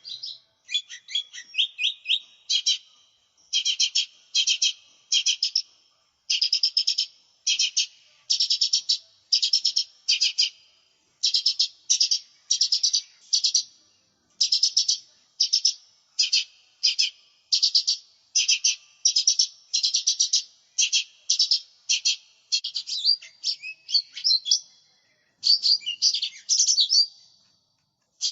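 Cucak ijo mini (a small green leafbird) singing hard and continuously: rapid, high chirping phrases between about 2 and 8 kHz, delivered in short bursts about twice a second with brief pauses between them.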